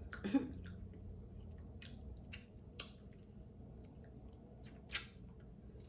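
Someone eating crab close to the microphone: soft wet chewing with a few short, sharp clicks and cracks scattered through, the loudest about five seconds in.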